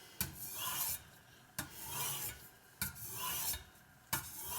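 Knife blade drawn across a wet Spyderco medium-grit aluminium oxide bench stone: four sharpening strokes, each starting with a sharp click and followed by a scraping rasp, about one stroke every 1.3 seconds.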